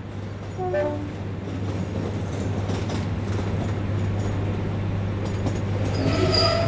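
Train sound effect: a passenger train running with a steady low rumble that builds up gradually, with short pitched tones about a second in and again near the end.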